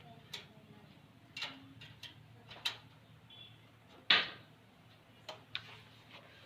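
Irregular clicks and knocks of small hard parts being handled, about six in all, the loudest about four seconds in.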